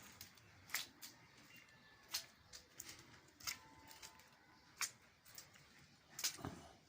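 Faint steady hiss of rain with irregular sharp taps of water drops striking a surface, the loudest near the end.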